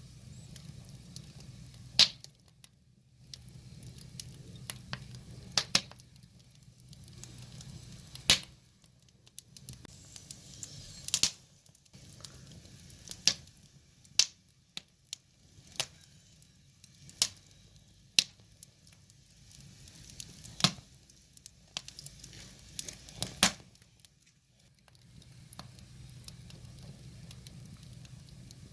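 Wood fire crackling: sharp pops and snaps of burning firewood, irregular and a second or so apart, over a low rumble that comes and goes.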